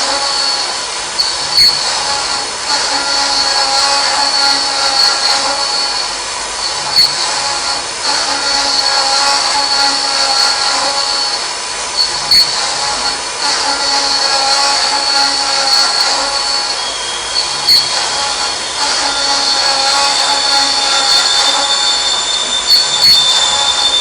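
CNC machining centre running a cut: a steady high-pitched whine made of several tones, broken by a few sharp ticks, with a further tone joining about seventeen seconds in.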